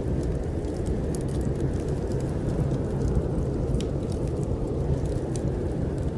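Steady low rumble of snowstorm wind, with a wood fire in a fireplace crackling and popping in scattered sharp clicks over it.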